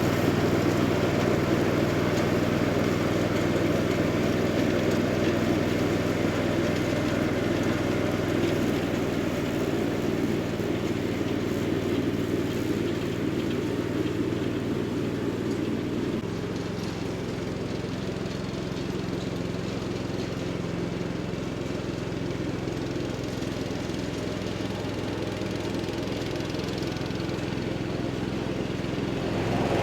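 1978 Cub Cadet 1000 garden tractor engine running steadily; about halfway through its note shifts and it runs a little quieter.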